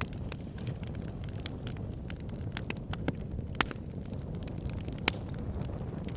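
Wood fire burning in a fireplace: a steady low rumble of flames with irregular sharp crackles and pops, two of them louder, past halfway and near the end.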